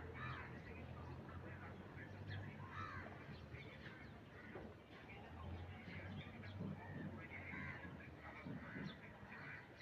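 Faint outdoor bird calls, many short and scattered, over a steady low hum.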